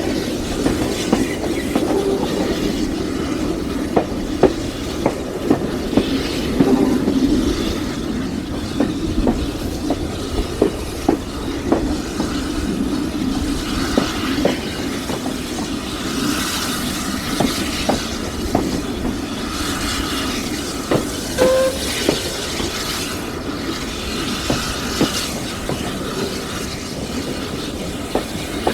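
Steam-hauled train behind a Caledonian Railway 0-4-4T tank locomotive running along the line, its wheels clicking over the rail joints about once or twice a second over a steady rumble. Patches of hiss come in the second half.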